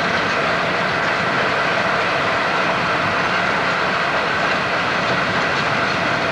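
Coal freight train hauled by a Class 56 diesel locomotive passing, with a steady, loud rolling noise of wheels on the rails.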